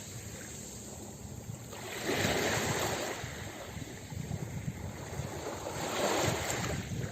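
Ocean surf on a beach: a wave breaks about two seconds in and another about six seconds in, with foamy wash in between.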